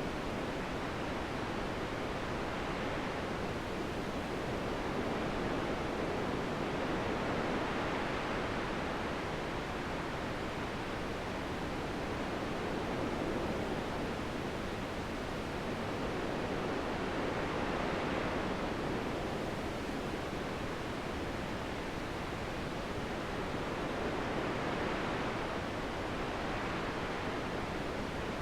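Wind blowing steadily, swelling and easing in slow gusts every five seconds or so.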